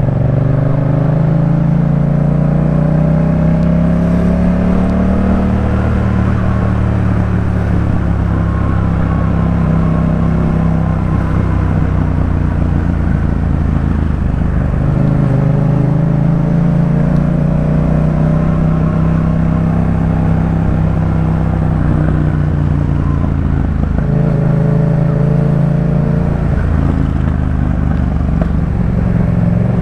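Yamaha MT-07's 689 cc parallel-twin engine breathing through a Jeskap K4 full aftermarket exhaust while riding. Its pitch rises and falls several times as the throttle is opened and eased off, climbing at the start and again about halfway through, with a dip a little before the end.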